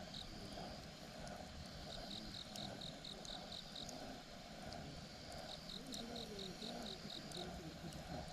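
Wood campfire burning with scattered small crackles and pops, while an insect chirps in short trains of rapid high-pitched pulses, twice.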